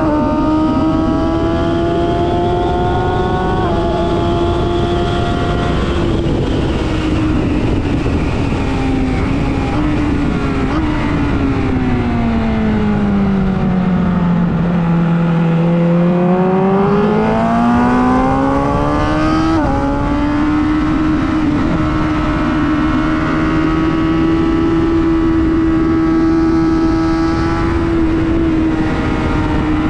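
Superbike engine at speed on a racetrack. Its pitch holds high, then falls with steps as the bike brakes and gears down to a low point about halfway through. It then climbs back up, jumps once at a gear change, and runs steady at high revs.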